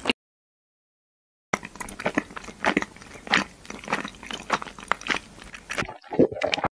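Close-miked eating sounds: irregular, crackly chewing and crunching that starts about a second and a half in and runs for about four seconds, then a brief lower sound near the end.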